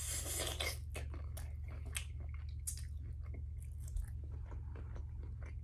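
Close-up chewing of cooked shrimp: wet mouth clicks and smacks. A short noisy slurp at the start, as fingers are sucked clean. A steady low hum runs underneath.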